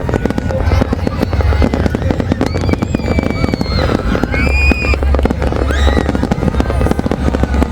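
A large fireworks display going off non-stop: a dense, continuous run of bangs and crackles over a deep booming rumble.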